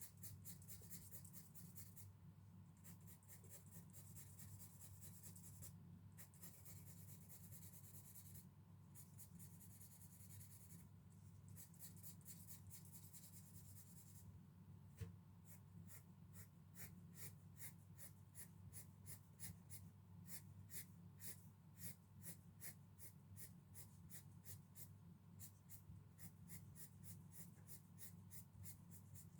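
Graphite pencil shading on paper: quick, faint back-and-forth hatching strokes, in short bursts at first and then a steady run of about three strokes a second in the second half.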